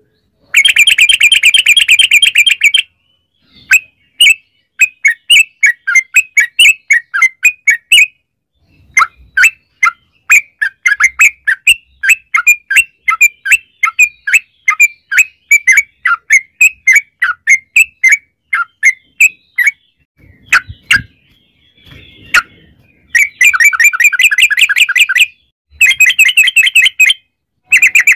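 Yellow-vented bulbul (trucukan) singing loudly in fast rolling trills of bubbly notes. A long roll comes at the start and two more near the end, with runs of quick separate chirps between them.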